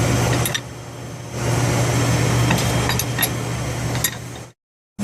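Metal tools clinking on boiler pipe fittings while a union is being undone: a few sharp clicks and taps over a steady low mechanical hum. The sound cuts out abruptly about half a second before the end.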